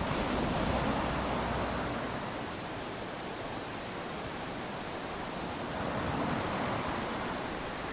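Small waves lapping onto a sandy beach: a steady wash of surf that swells twice, about a second in and again around six seconds in, as waves run up the sand.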